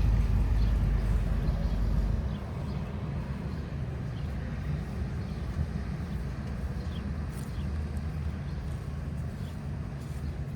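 Low vehicle engine rumble close by, loud at first and dropping off sharply about two seconds in, leaving a quieter steady rumble.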